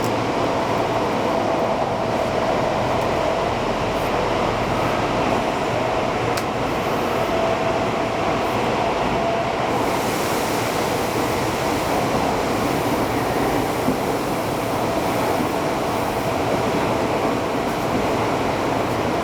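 Tokyo Metro 8000 series subway train running through a tunnel, heard from inside a car: a steady rumble of wheels and running gear with a constant hum. From about halfway in, more hiss joins at the top.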